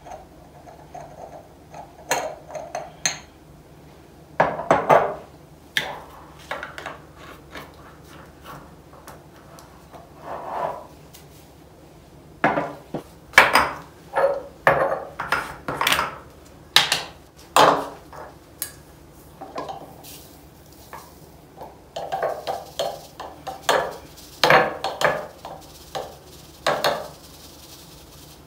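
Spice jars, lids and spoons being handled: irregular clinks and knocks in small clusters, with a few louder knocks.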